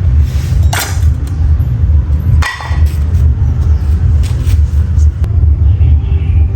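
A loud, steady low rumble, with a few sharp clicks and knocks on top.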